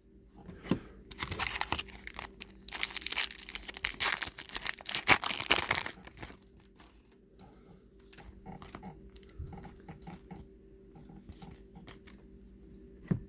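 Trading card pack wrapper being torn open and crumpled, with loud crinkling for the first several seconds, then softer rustles and clicks.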